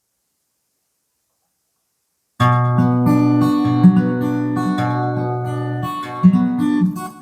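Silence for about two seconds, then an acoustic guitar starts playing chords with a moving bass line.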